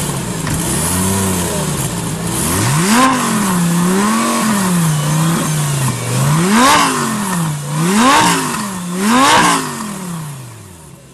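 Lamborghini Gallardo SE's V10 engine being revved through its exhaust, pitch climbing and dropping again and again: gentler swells at first, then three sharp, loud rev blips in quick succession before it settles and fades near the end.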